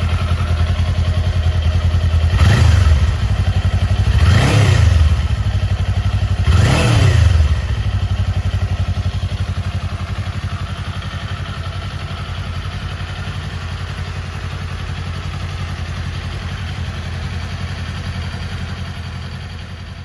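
Kawasaki Eliminator 400 SE's parallel-twin engine idling, blipped three times in quick succession over the first eight seconds with the pitch rising and falling each time, then settling back to a steady idle.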